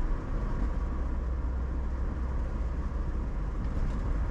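Steady low rumble of a vehicle driving at road speed, heard from inside the cab: engine and tyre noise.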